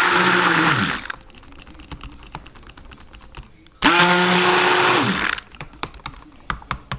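Stick blender running in soap batter in short pulses: one burst winds down about a second in, and another starts suddenly near the middle and spins down about a second and a half later. Light clicks and taps come between the bursts and after them.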